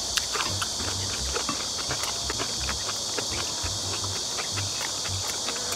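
Two people eating kimchi and rice: chewing and mouth sounds with many short clicks of wooden chopsticks against glass and metal bowls, over a steady high-pitched drone of insects.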